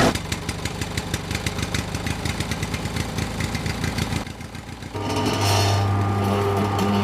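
Small motor of a miniature DIY tractor running: a fast, even clatter for the first few seconds, a brief drop, then a steady hum from about five seconds in.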